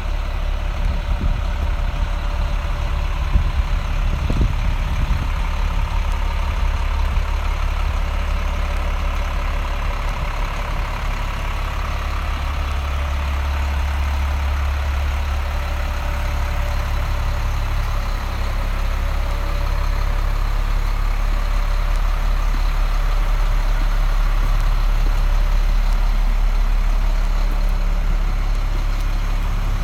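2007 Freightliner M2 106 truck's diesel engine idling steadily, with a few light knocks in the first seconds.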